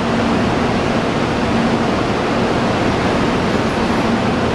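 Steady rushing noise with a faint low hum from a stationary 800 Series Shinkansen standing at the platform, its ventilation and equipment fans running.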